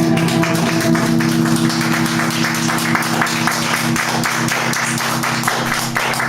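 Live band music without vocals: a guitar strummed rapidly over a steady held chord.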